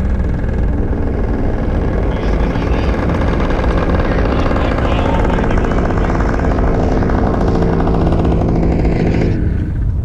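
2012 Mazda 3's engine running hard at high revs on an autocross course, then easing off about nine seconds in.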